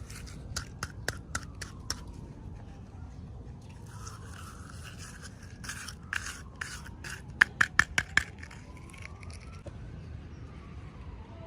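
Small plastic toy packaging being handled and opened: scraping and rustling with sharp clicks, ending in a quick run of four loud clicks about three-quarters of the way through.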